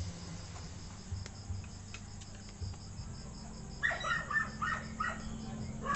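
A bird calling over and over in quick, harsh notes from about two-thirds of the way in, over a faint, evenly repeating insect chirping and a low steady hum.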